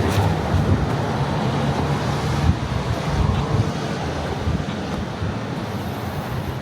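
Wind buffeting the microphone: a rough, fluttering low rumble over a steady rushing noise.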